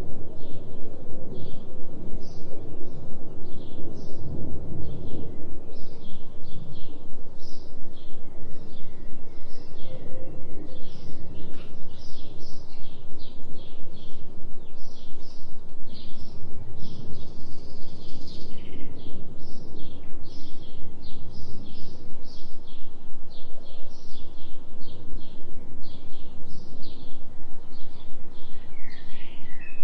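Forest ambience: birds chirping in quick repeated short notes throughout, over a steady low hum and noise bed from the binaural delta-wave track.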